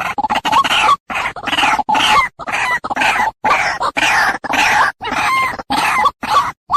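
White-breasted waterhen (ruak-ruak) calling in a rapid series of harsh, repeated calls, about two a second. It is the lure call played to attract waterhens to a trap.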